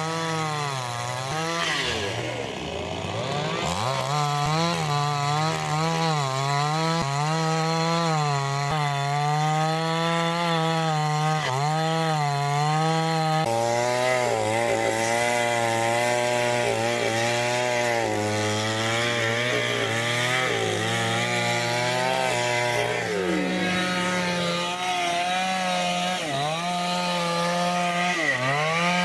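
Chainsaw running hard while cutting wood, its engine pitch sagging and recovering under load. The pitch drops and climbs back about two seconds in, settles lower about halfway through, and dips and rises again near the end.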